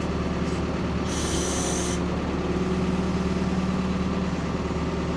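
Ford P-42 excavator's engine running steadily as the boom is worked, with a hiss lasting about a second, starting about a second in.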